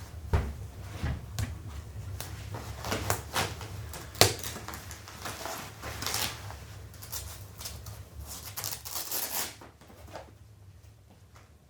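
Irregular clicks, knocks and rustling of things being handled in a small room, with one sharp knock about four seconds in, quieter after about ten seconds.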